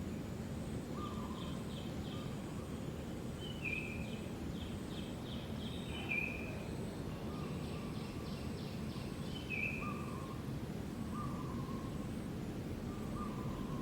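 Birds calling over a steady low background noise: short whistled notes repeated every second or two, some with quick trills.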